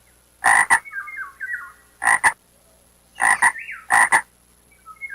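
Frog croaking: four short double croaks, each two quick rasping notes, with fainter short high chirping calls between them.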